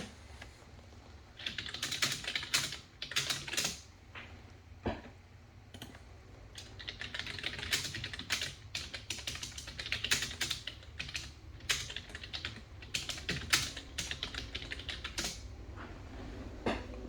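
Typing on a computer keyboard: two runs of quick keystrokes, a short one and then a longer one.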